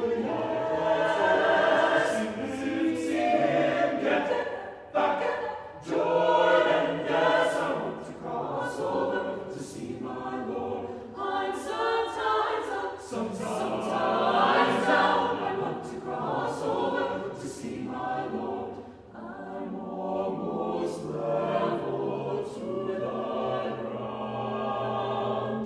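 A choir singing a spiritual in several voices, the sound rising and falling in loudness with the phrases.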